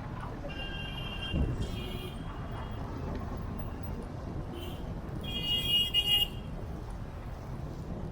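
Busy road traffic with vehicle horns honking: a horn about half a second in, and a louder horn blast about five seconds in, over the steady road and engine noise of the moving car. There is a short low thump at about a second and a half.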